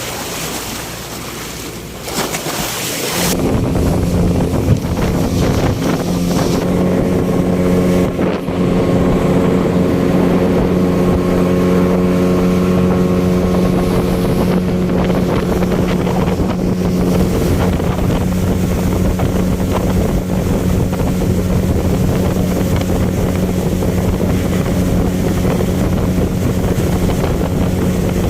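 Wind rushing over the microphone for the first few seconds, then a motorboat's engine comes in about three seconds in and runs steadily under the wind.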